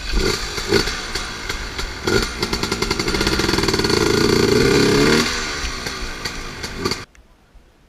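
Dirt bike engine revving hard while the bike is stuck in a mud bog, its rear wheel spinning. The revs climb and hold high for a few seconds, then drop away, and the sound cuts off suddenly near the end.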